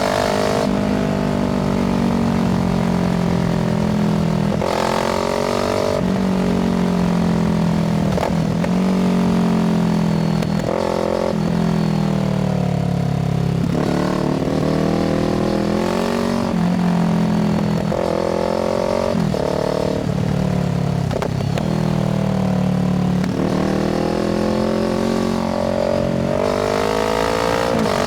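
Kawasaki Z650's parallel-twin engine through an aftermarket Ixil exhaust, under way: it revs up and drops back again and again, as the rider accelerates through the gears and rolls off the throttle.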